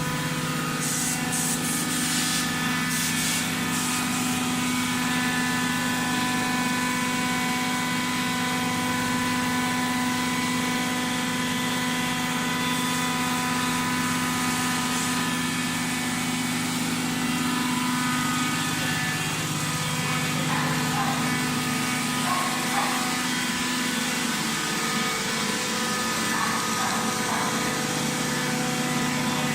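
Automatic hydraulic baling machine running: a steady hum of its motor and hydraulic pump, holding one level, with a few short hisses in the first few seconds.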